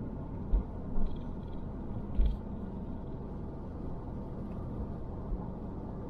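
Vehicle running slowly, heard from inside the cabin: a steady low road and engine rumble with a few short thumps about half a second, one second and two seconds in.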